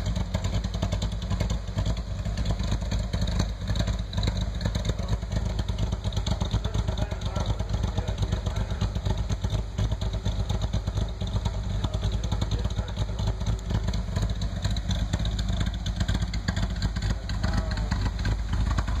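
2007 Corvette Z06's 7.0-litre LS7 V8, freshly fitted with a Vette-Air Hell Widow camshaft and ported heads and not yet tuned, idling steadily with a pulsing beat through the stock exhaust with its baffles open.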